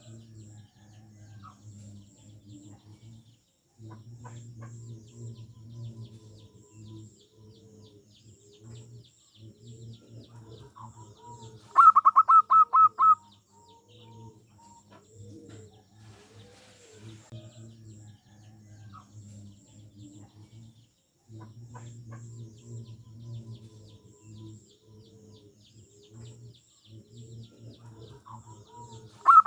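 Zebra doves (perkutut) cooing in repeated soft low phrases, broken twice, about twelve seconds in and again at the end, by a loud fast run of staccato notes.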